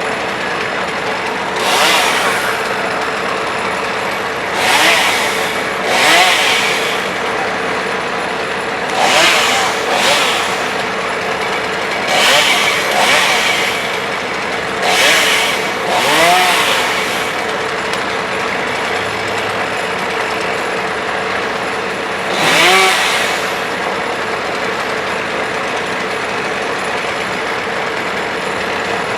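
Vermeer BC1000 brush chipper running steadily, with about ten loud, harsh bursts as branches are fed through and chipped, mostly in the first half. It then runs at an even pitch after one last burst about two-thirds of the way through.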